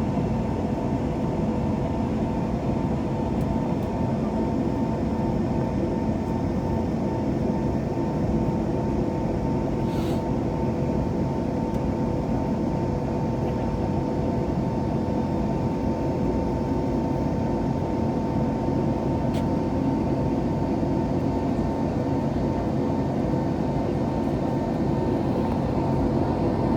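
Cabin noise of an Airbus A321neo with Pratt & Whitney PW1100G geared turbofan engines: a steady rumble with two constant hums.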